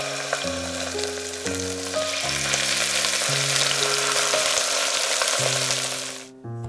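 Chicken breasts sizzling as they fry in hot oil in a pot. The sizzle cuts off suddenly near the end.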